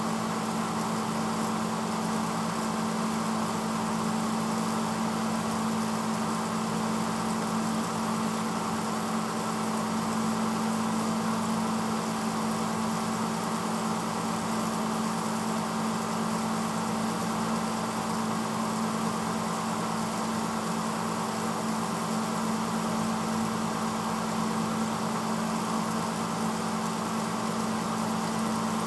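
1986 Hotpoint Potwasher dishwasher running mid-cycle: a steady motor hum over an even rushing noise, unchanging throughout.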